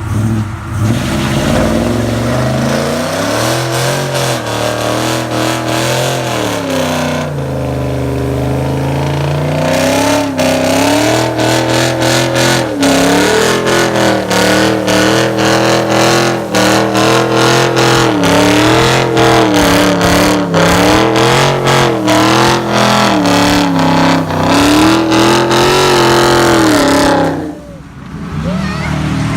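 Car engine revving hard, its pitch climbing and falling again and again, with a dense rapid crackle through the middle. The engine drops off suddenly near the end.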